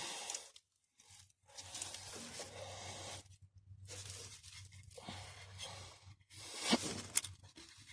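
Faint rustling and scraping of hands and tools working under a truck while feeling for a starter bolt, in several short stretches, with a louder scrape that ends in a sharp click about two thirds of the way in.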